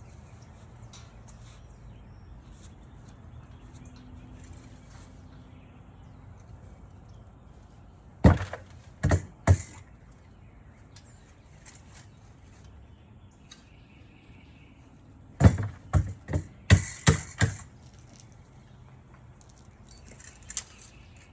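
A few sharp knocks or clatters over a low steady background: three about eight to nine and a half seconds in, then a quicker run of about six around fifteen to seventeen seconds in.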